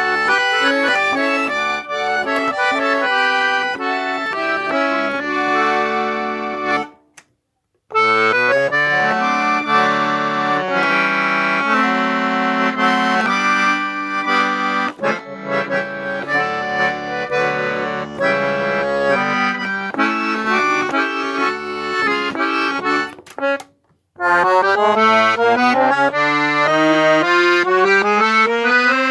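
Accordion playing a tune in chords with bass notes. It cuts out twice for about a second, then finishes with a long run of notes climbing steadily upward.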